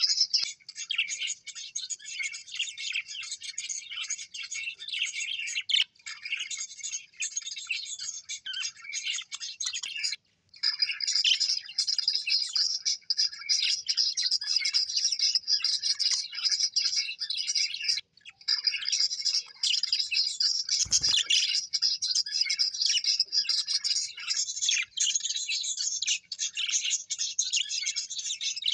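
A group of small parrots chirping and warbling, a dense, continuous high-pitched chatter that breaks off briefly twice. A single low thump about two-thirds of the way through.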